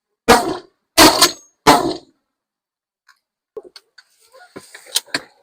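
Three shotgun shots in quick succession, about two-thirds of a second apart, fired at incoming geese. A scatter of light metallic clicks and clinks follows near the end.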